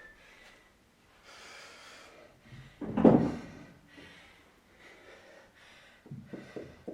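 Heavy breathing during a rest after a hard set, with one loud, short breath about three seconds in and a few shorter ones near the end.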